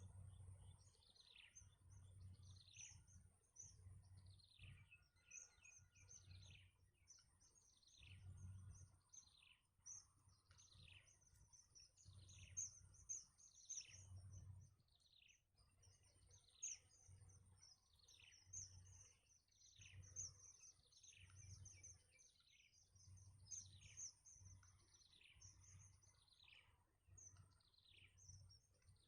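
Faint bird calls: a short downward-sliding whistle repeated about once a second, with quick high chirps in between.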